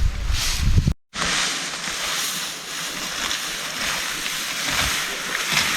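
Heavy rain pouring down, a steady hiss, with strong wind buffeting the microphone as a loud low rumble in the first second; the sound cuts out briefly about a second in, and the rain hiss then carries on alone.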